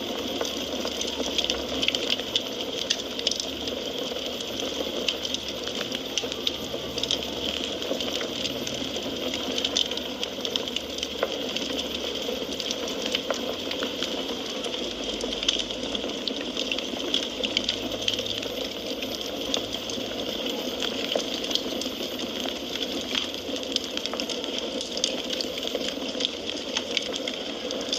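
Wood fire crackling in a fireplace: many small sharp pops and snaps over a steady hiss.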